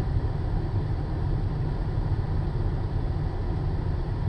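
Steady low rumble of a vehicle running, with no distinct knocks or changes.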